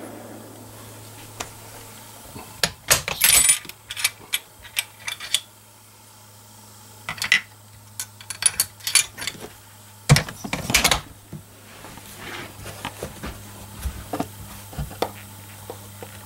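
Metallic clicks and clinks from handling a bolt-action rifle and its cartridges between shots, in several quick clusters.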